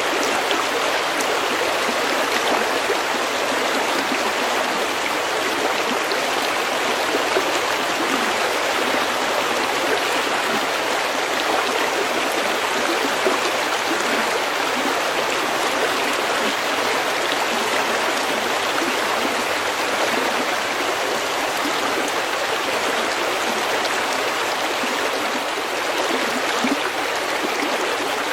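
A snowmelt stream running over pebbles: a steady, unbroken rush of flowing water.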